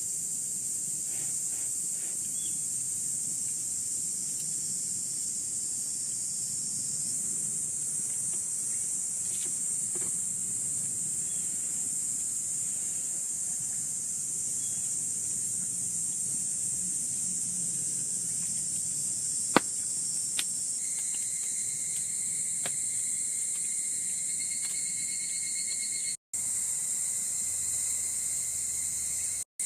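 Insects, crickets, keep up a steady high-pitched chorus, with one sharp click about two-thirds of the way through. The sound cuts out briefly twice near the end.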